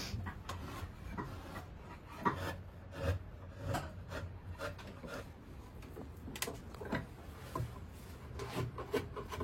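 Faint scattered knocks and rubbing over a low steady hum, the sound of things being handled or moved.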